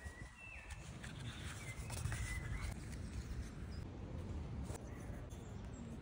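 A bird whistling two short phrases of clear notes that step in pitch, one at the start and one about two seconds in, with light clicks and rustles of sketchbook paper being handled, over a low, steady background rumble.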